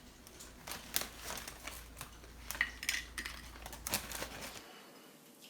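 Irregular light clicks and clinks of dishes being handled, a few of them with a short ring.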